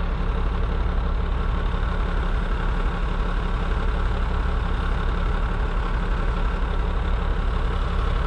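Heavy truck engine idling steadily, with a low, even rumble throughout.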